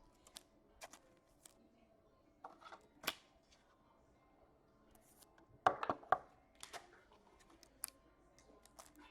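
Trading cards and foil pack wrappers being handled: scattered short clicks and rustles of cards sliding and tapping, with a louder cluster of crackling a little past the middle as a pack wrapper is torn open.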